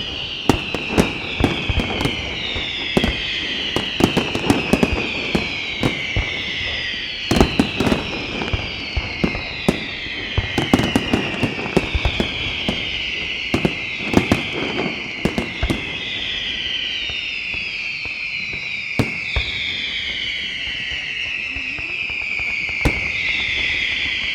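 Aerial fireworks display: whistling shells sending a continuous run of overlapping falling whistles, a new one about every second. Under them are sharp bangs, thick through the first two-thirds and then thinning to a few scattered reports.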